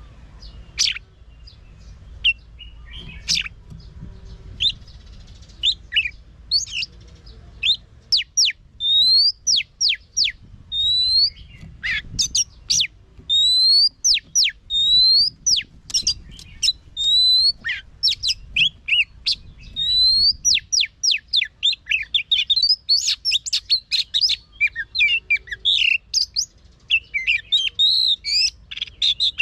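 Oriental magpie-robin singing a fast, varied song of whistled notes and rising sweeps, sparser at first and dense from about a quarter of the way in. A low rumble sits underneath until about two-thirds through.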